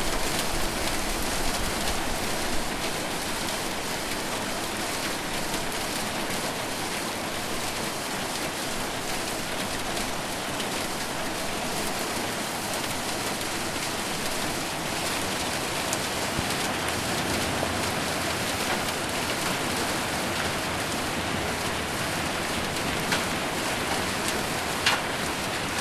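Heavy rain with hail falling on a roof: a dense, steady hiss of drops, with a few sharper single strikes standing out, the clearest near the end.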